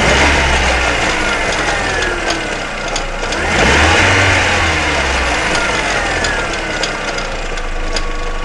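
Volkswagen Jetta 2.0-litre four-cylinder engine revved twice from idle, right at the start and again about three and a half seconds in, each time sinking back toward idle. A ticking runs through it that changes with engine speed but not in proportion to it, which the mechanic takes as a sign that this is not an internal engine problem.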